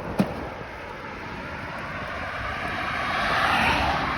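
A motor vehicle approaching and passing on the highway: its tyre and engine noise swells steadily to a peak near the end and begins to fade.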